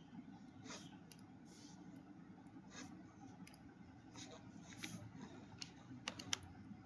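Faint writing sounds: short, scattered pen strokes and taps with a few sharper clicks about six seconds in, over a low steady room hum.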